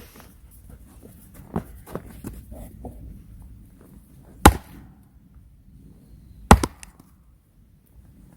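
Chopping blows on firewood: a few light knocks, then two heavy, sharp strikes about two seconds apart.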